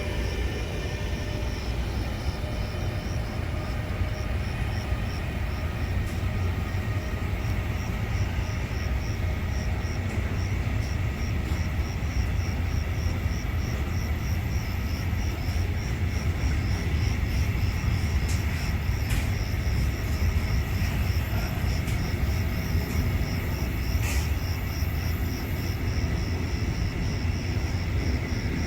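A train's steady low rumble. Over it, insects chirp in a regular high pulse, about three chirps a second.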